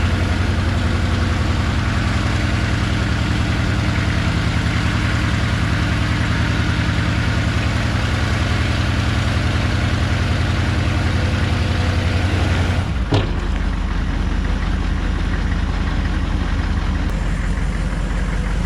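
1990 M998 Humvee's 6.2-litre V8 diesel running steadily, then a single sharp knock about thirteen seconds in, after which the engine settles to a lower, steady idle.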